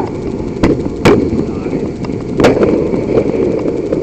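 Fireworks exploding: three sharp bangs, the loudest about a second in, over a constant low background rumble.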